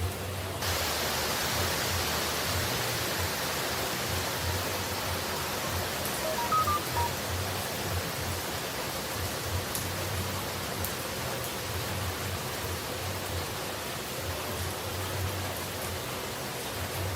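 Steady rushing noise of falling water, turning brighter and hissier a little under a second in. A few brief high notes sound faintly about six seconds in.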